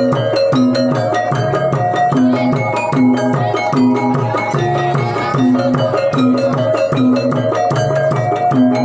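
Traditional Javanese gamelan music: pitched percussion plays a melody over drum beats at a steady, even beat.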